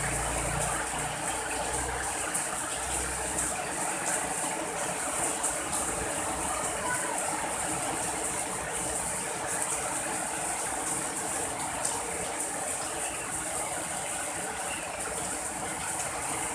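Steady rain falling, an even hiss. The low rumble of a passing vehicle fades out in the first couple of seconds.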